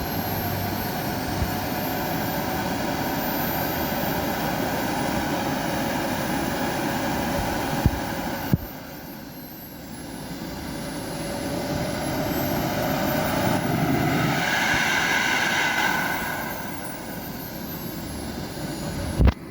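Jet aircraft in flight, a steady engine drone with a sharp change about eight and a half seconds in. It then swells louder as the aircraft passes, the pitch sliding around the loudest point, and fades.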